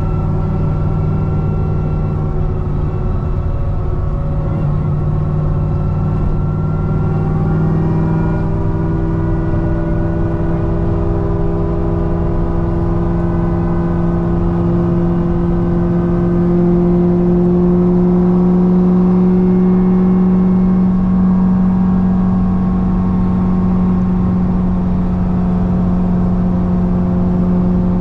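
Supercharged V8 of a modified C6 Corvette ZR1 pulling steadily at highway speed. The engine's pitch climbs slowly through the middle as the car gains speed, then holds steady over road noise.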